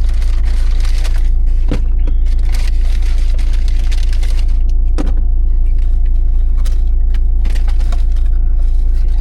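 Vehicle engine running steadily, heard from inside the cab as a constant low hum, with a few light clicks and rustles.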